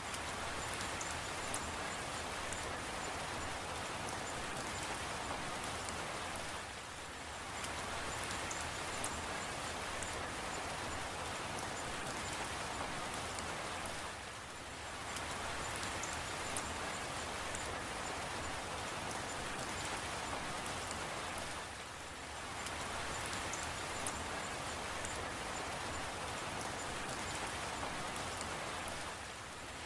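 Steady, heavy rain falling in an even hiss, dipping briefly in level about every seven and a half seconds.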